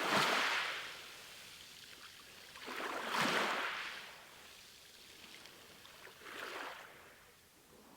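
Small sea waves washing onto the shore: three swells about three seconds apart, each a hiss that rises and falls away, the last one weaker.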